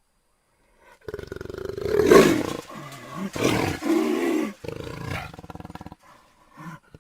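Jaguar roaring: after about a second of silence, a loud call peaks about two seconds in, a second call follows around three and a half to four and a half seconds, and a weaker one fades out after about five seconds.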